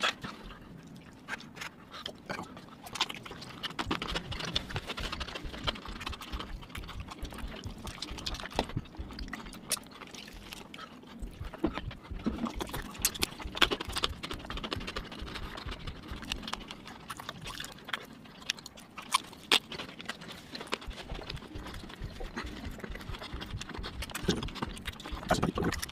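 Close-miked chewing and lip-smacking of rotisserie chicken, a steady stream of irregular wet mouth clicks and smacks.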